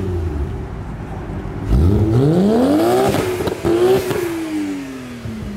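A car engine revving hard: its pitch climbs steeply about two seconds in, breaks briefly with a few sharp crackles, climbs again, then slides slowly down as it eases off.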